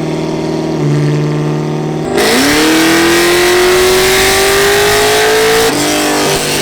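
Car engine idling, then revved hard about two seconds in and held high with its pitch climbing slowly for several seconds, loud exhaust noise over it, before dropping back toward idle near the end.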